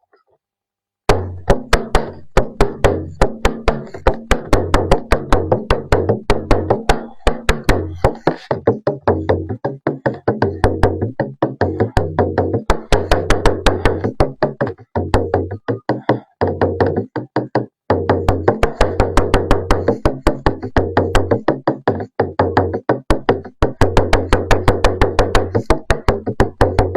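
A drum struck with a stick in a quick, steady rhythm of several strokes a second, each stroke ringing with a low pitched tone. The playing starts about a second in and pauses briefly a few times.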